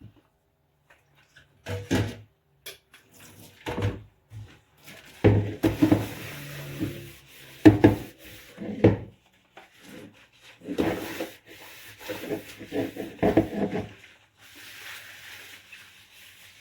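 Dishes being scrubbed by hand in rubber gloves: irregular rubbing and scrubbing strokes, some in quick clusters.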